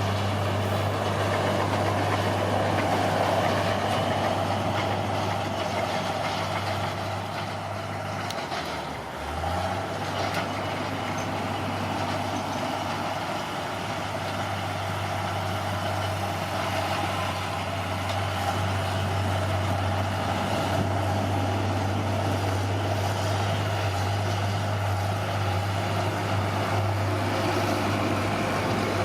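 Bulldozer's diesel engine running steadily with a deep, even drone, briefly dipping in pitch and level about nine seconds in.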